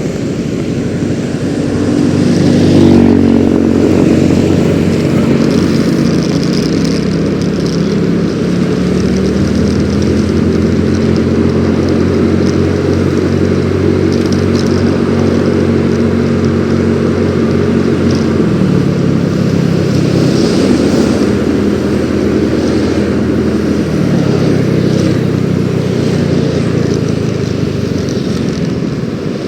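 Yamaha X-Ride 113cc scooter's single-cylinder four-stroke engine running under way. Its pitch climbs soon after the start and holds steady, drops about two-thirds of the way through, then rises and eases off again.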